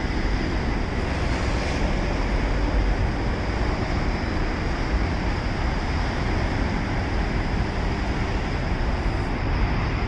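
Subway train running on elevated track: a steady, loud rushing rumble.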